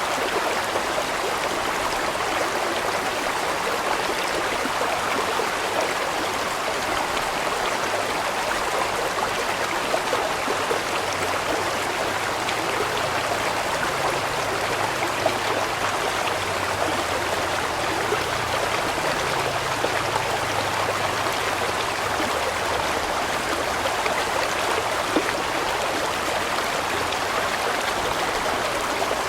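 Large stream of water rushing and splashing steadily over rocks.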